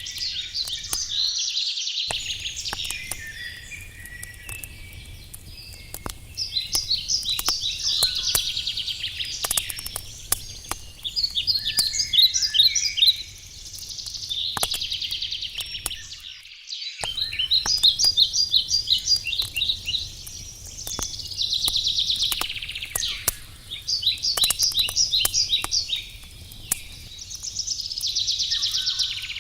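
Wood fire crackling with scattered sharp pops, under small songbirds repeatedly singing short trilled phrases every few seconds; the birdsong is the loudest sound. The sound cuts out briefly twice, early and about halfway through.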